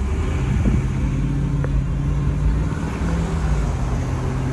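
Car driving at steady speed: a steady low engine hum and road noise, heard from inside the cabin.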